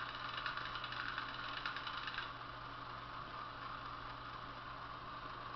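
Diesel railcar handbrake wheel ratchet clicking rapidly, played as a sound-decoder effect through tiny model speakers; it stops about two seconds in. Under it the DMU's diesel engines idle steadily.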